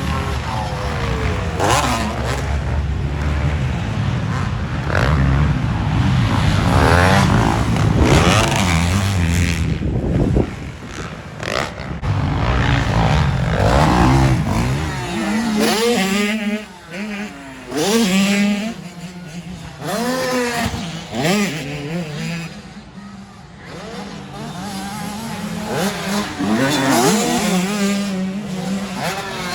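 Several motocross dirt bikes racing, their engines revving up and down through the gears over a heavy low rumble. About halfway through the rumble drops away, leaving a few engines revving and shifting.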